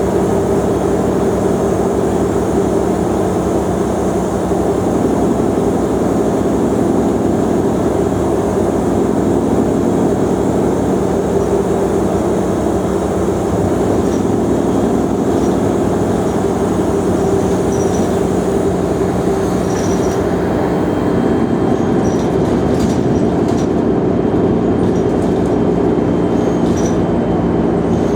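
Mercedes-Benz O345 Conecto G articulated city bus under way, its diesel engine running with a steady drone that rises and falls slowly in pitch as the bus changes speed. A few short high beeps and faint clicks come in during the last several seconds.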